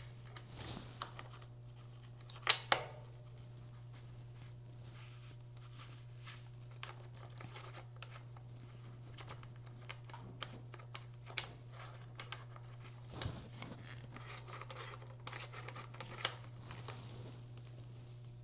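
Small hand-work sounds at a bicycle's steer tube as the threaded expander plug and spacers are worked back in: scattered light clicks and scrapes, with two sharp clicks close together about two and a half seconds in. A steady low hum sits underneath.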